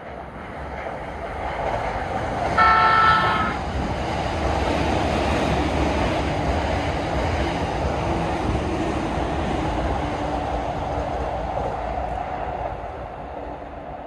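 Electric train passing below: a rumble that builds over the first couple of seconds and fades near the end. A short horn blast sounds about three seconds in.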